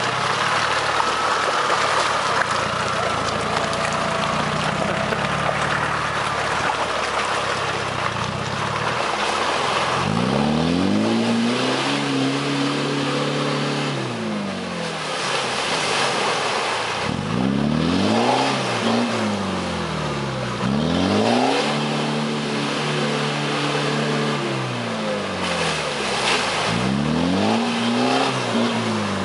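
Land Rover Series One challenge truck's engine running hard off-road. From about ten seconds in, it revs up and drops back again and again, each rise and fall lasting a few seconds.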